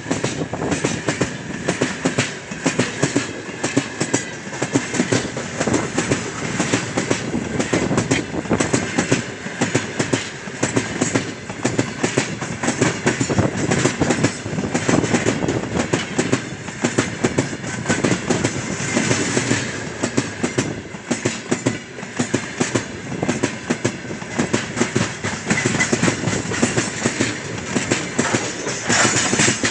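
Freight train of open-top gondola wagons passing close by: steel wheels and bogies clattering over the rail joints in a dense, continuous clatter.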